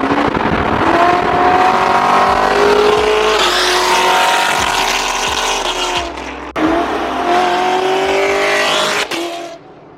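A car engine accelerating hard, its pitch climbing with a step partway up, then a second run-up a little past halfway; the sound drops away shortly before the end.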